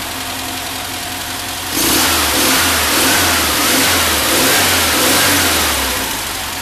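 36 hp Volkswagen air-cooled flat-four with dual Dietz carburettors running just after start-up: it idles, then is revved up and down several times from about two seconds in, before settling back to idle near the end.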